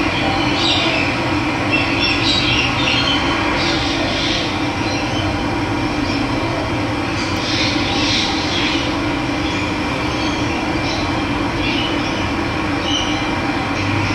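Steady rush of running water, with wild birds chirping in short calls now and then over it.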